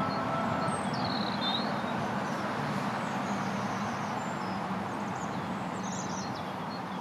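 Steady background noise with a few short, high bird chirps; the held notes of background music die away in the first second.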